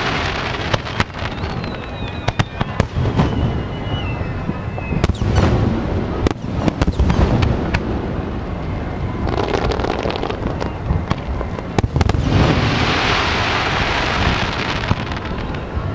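Aerial fireworks bursting: repeated sharp bangs from shells exploding overhead, with a falling whistle a couple of seconds in and longer spells of dense hissing noise about ten seconds in and near the end.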